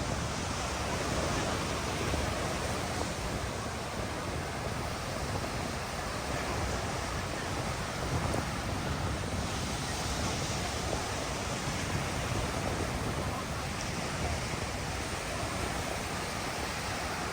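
Ocean surf washing onto a sandy beach in a steady wash, with wind buffeting the microphone.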